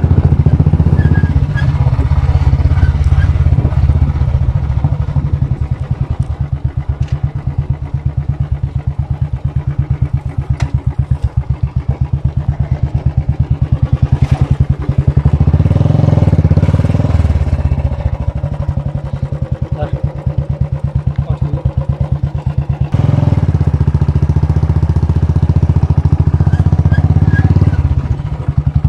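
Royal Enfield Bullet's single-cylinder four-stroke engine running while riding, its exhaust giving a fast, even thump. The engine swells louder and eases off a few times, strongest about halfway through and again near the end.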